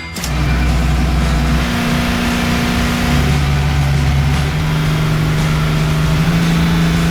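Engine of a motor vehicle running steadily, its pitch stepping up slightly partway through.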